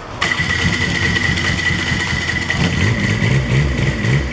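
Rebuilt Kubota diesel engine running, freshly started after the rebuild. It comes in sharply just after the start, and a regular low pulsing grows in the second half.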